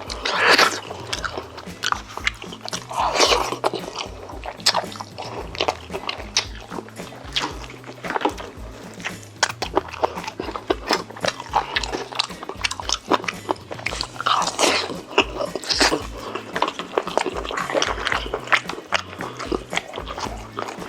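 Close-miked eating sounds: biting and chewing food with many small wet clicks and crunches and a few louder bites, over background music.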